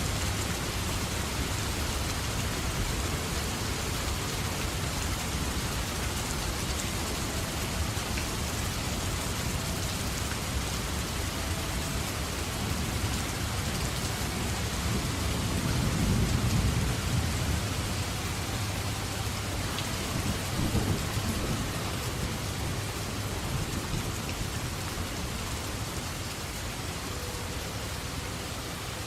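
Steady heavy rain, with thunder rumbling low about halfway through and a shorter rumble a few seconds later.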